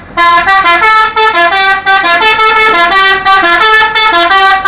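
Multi-tone musical bus horn of the Indonesian "telolet" kind, playing a quick melody of stepped notes, about four a second, without a break.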